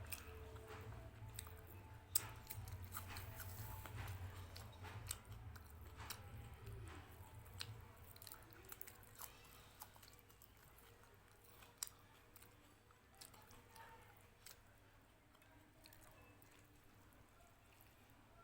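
A person chewing food close to the microphone, with many small, sharp mouth clicks. It grows fainter over the second half, and a low hum sits under the first half.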